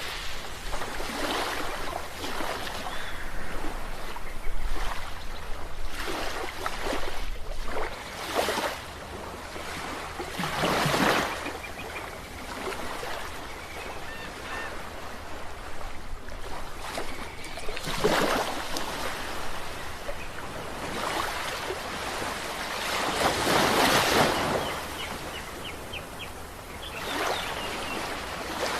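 Sea waves breaking and washing up on a shore: a steady hiss of surf with a louder surge every few seconds as each wave comes in and falls away.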